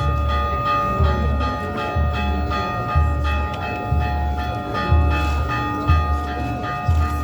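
Bells ringing steadily, several tones sounding together with repeated strikes, and a deep thud about once a second.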